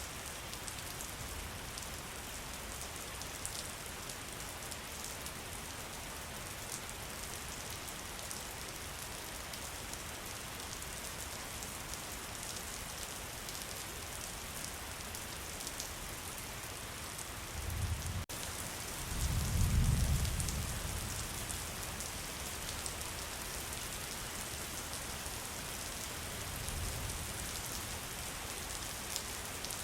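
Steady rainfall with dense pattering drips. About two-thirds of the way in a low rumble of thunder swells for a few seconds and fades, and a fainter rumble follows near the end.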